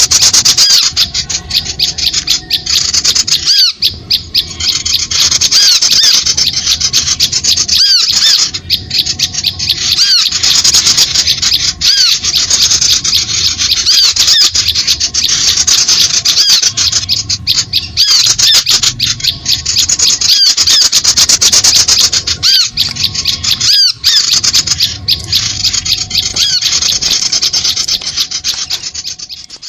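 A dense, continuous chorus of many small birds' high-pitched, rapid chirps and squeaky calls, used as a bird-trapping lure recording to attract small birds.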